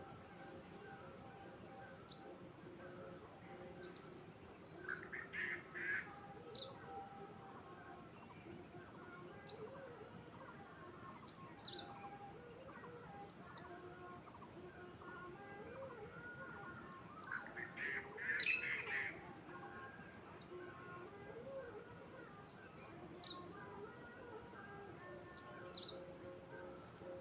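Small birds chirping: short high calls repeated every second or two, with a louder, lower burst of calls twice.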